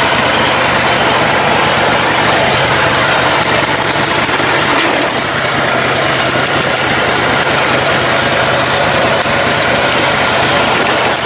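Engine of a lifted, modified riding mower running steadily while it is driven along.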